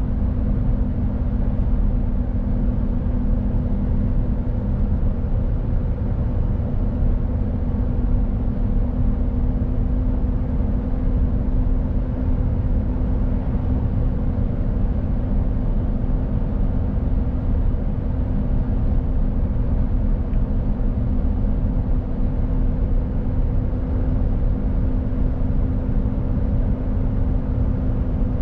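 Mercedes Actros truck driving at a steady speed: a constant low engine drone with a steady hum over rumbling road and tyre noise, without change in pitch.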